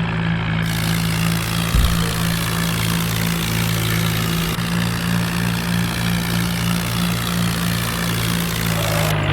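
Tractor engine running steadily at a low idle-like speed, with a short thump about two seconds in.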